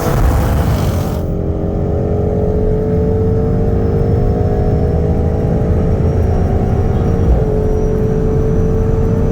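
Twin-turbo V8 sports car engine at full throttle in a high gear, its pitch climbing slowly and steadily as it accelerates. A high rushing hiss cuts off about a second in.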